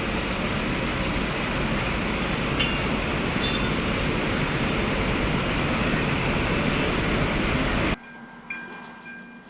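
A train running close by: a loud, steady rush of rail noise that cuts off abruptly about eight seconds in. Then faint, steady ringing tones.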